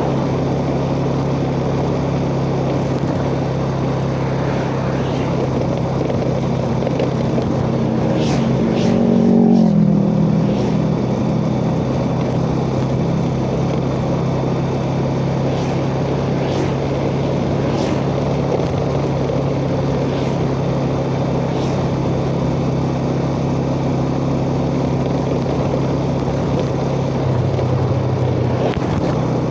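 Yamaha Jupiter Z underbone motorcycle's single-cylinder four-stroke engine running at a steady road speed, heard from the rider's chest with wind noise. About eight seconds in the engine revs up and then drops back.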